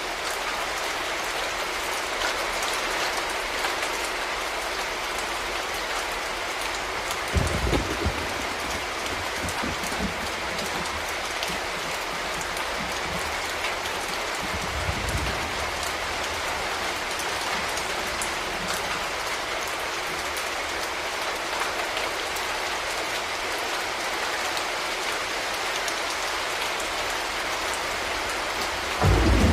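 Steady rain falling on a surface, an even patter throughout. It is broken by brief low rumbles about seven seconds in, again about fifteen seconds in, and near the end.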